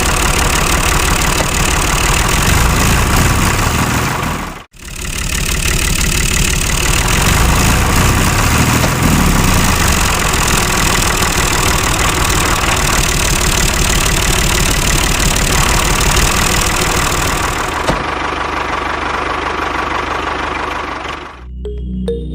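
A small motor running hard with a rapid, rough knocking. It breaks off for an instant about five seconds in, runs on, and cuts off just before the end.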